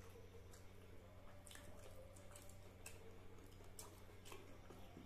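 Near silence with faint scattered clicks and soft wet mouth sounds of a person chewing food, over a low steady hum.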